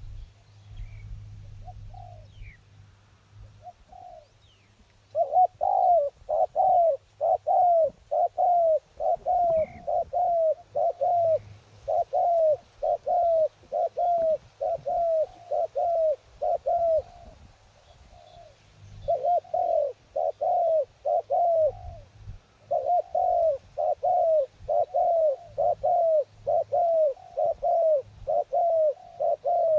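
A decoy dove cooing over and over, about one and a half coos a second, each note dropping in pitch. The calling starts about five seconds in and runs in three long bouts with two short pauses. A low wind rumble sits underneath, with a few faint chirps from other birds early on.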